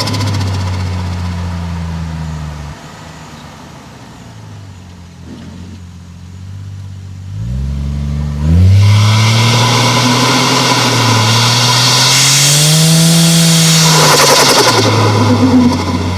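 Toyota 1JZ-GTE turbocharged straight-six engine and exhaust. Its revs fall away as the throttle is lifted, leaving a quieter stretch. About seven seconds in the revs sweep up sharply and the engine pulls loudly under load, its pitch climbing and easing, before a hissing rush as it comes off the throttle near the end.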